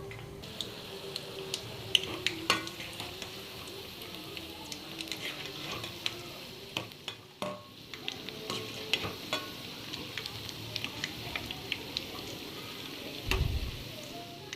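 Onion pakoras deep-frying in hot oil, sizzling steadily, with frequent sharp clicks and scrapes of a utensil stirring in the pan. A low knock comes near the end.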